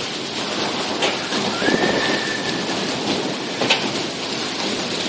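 Heavy rain falling in a steady hiss, with a faint high steady tone lasting about a second in the middle of it.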